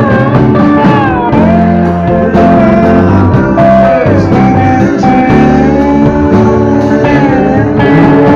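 Rock band playing a slow number, led by an electric guitar whose melody notes slide and bend in pitch over a steady bass and chord backing.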